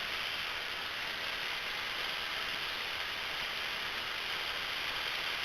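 Steady hiss of a Cessna 172M Skyhawk's cabin noise in flight, even throughout with little low rumble.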